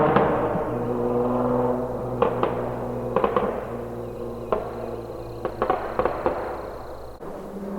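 The 3.5-litre VQ35DE V6 of a 2006 G35 Coupe, breathing through Manzo test pipes, a Z1 Y-pipe and a Tomei single-exit exhaust, drops out of a rev to a steady idle. Scattered sharp pops come in clusters from about two seconds in to past six seconds.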